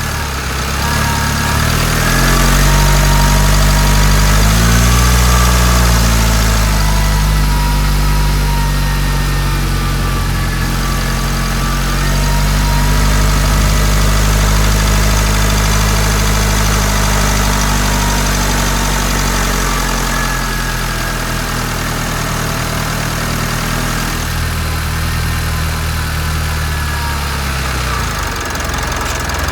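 Mitsubishi Delica D5 diesel engine idling, its speed rising and falling slightly a few times.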